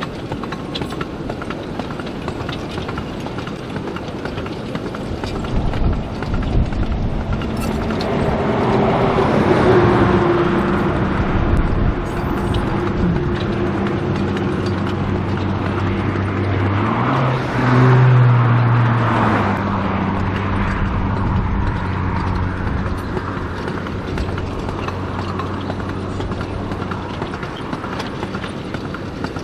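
A 2 ft gauge sugar cane train passing: wheels clicking rapidly over the rail joints, with a diesel locomotive engine running that swells loudest around the middle.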